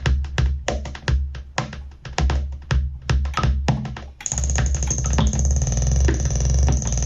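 Behringer EDGE analog percussion synthesizer playing a sequenced pattern of short, rapid percussive hits over a low pulsing bass. About four seconds in, the sound turns into a dense, sustained drone with a steady high whine on top.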